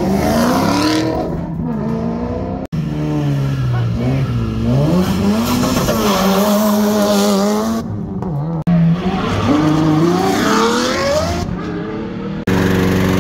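Performance cars accelerating hard one after another, engines revving up in repeated rising sweeps: a Maserati GranTurismo's V8, then a Mitsubishi Lancer Evolution VIII's turbocharged four-cylinder, then another car. Near the end it cuts to a petrol lawn mower engine running steadily.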